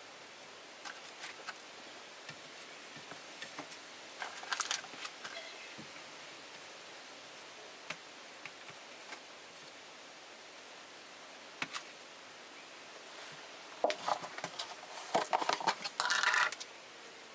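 Light clicks and clinks of objects being handled over a steady hiss, with a busier patch of clattering about four seconds in and a longer one near the end.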